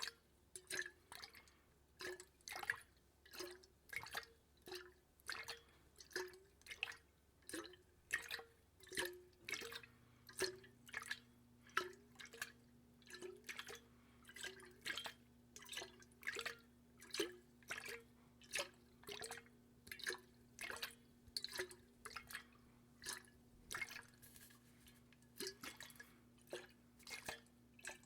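Water dripping close to the microphone, the drops falling in a steady rhythm of about one and a half a second, each a short, bright plink.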